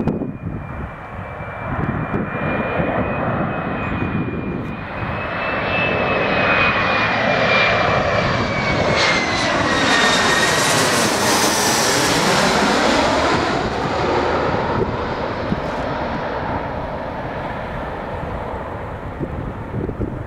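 Embraer 170 regional jet's two turbofan engines passing close by on its landing. A rushing jet noise carries a high fan whine; the whine drops in pitch as the plane goes past, loudest about halfway through, then the noise slowly fades.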